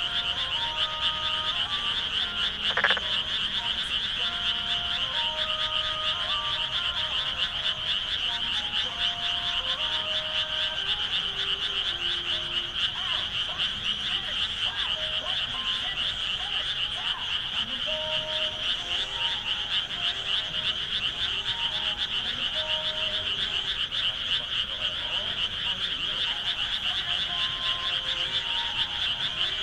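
Dense frog chorus in flooded rice paddies: a steady, high-pitched, rapidly pulsing trill, with many short, lower calls scattered through it. A brief sharp sound stands out about three seconds in.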